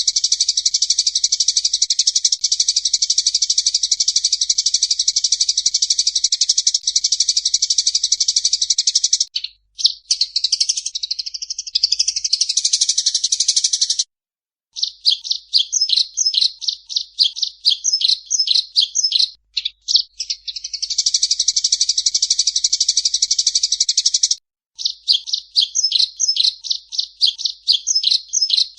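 Songbird singing a masteran (bird-training) song. It opens with a long, fast, high trill of about nine seconds, then a warbled phrase, then runs of quick chipping notes with short pauses, another long trill of about four seconds, and more rapid notes.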